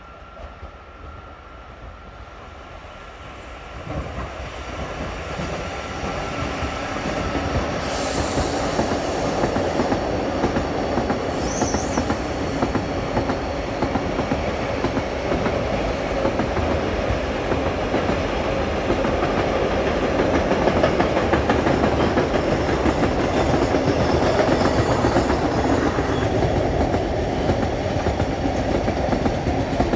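An intermodal container freight train approaching and passing close by, growing louder over the first several seconds, then a steady rumble and clickety-clack of the container wagons' wheels over the rail joints as the long train rolls past.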